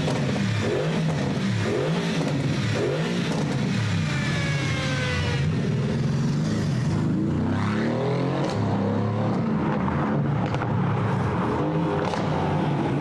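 Mercedes-AMG car engine revving hard, its pitch climbing and dropping again and again, with a falling whine about four to five seconds in.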